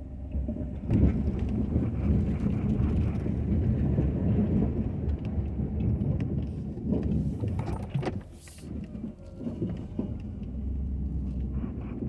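Ford F-250 pickup truck running and moving, a rough low rumble that grows louder about a second in, with scattered knocks and rattles.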